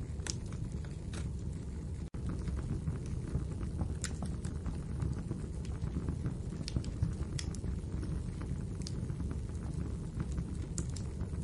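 Wood fire burning in a fireplace: a steady low rumble of flames with sharp crackles and pops every second or so. The sound cuts out for an instant about two seconds in.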